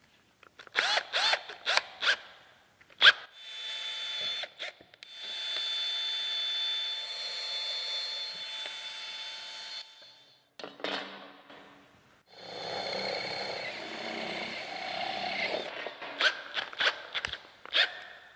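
Electric drill: several short trigger bursts that spin the motor up and down, a sharp knock, then two long steady runs of the motor under load, and more short bursts near the end.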